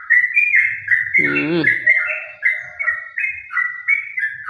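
Yellow-vented bulbul (trucukan) singing a fast, unbroken run of short chirping notes that step up and down in pitch, about four or five a second. A brief lower-pitched sound cuts in about a second in.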